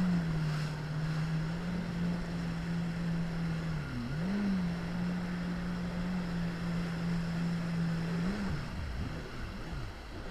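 Jet ski engine running at a steady cruising pitch, dipping and rising briefly a few times as the throttle changes, over wind and water-spray hiss. Near the end the engine note drops and wavers up and down as the craft slows.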